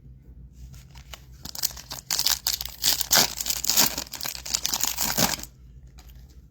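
A foil trading-card pack wrapper being torn open and crinkled, a dense crackling that builds about a second in and stops sharply near the end.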